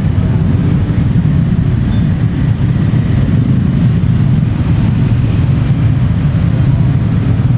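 Steady low diesel rumble of a passenger train pulling away along the tracks.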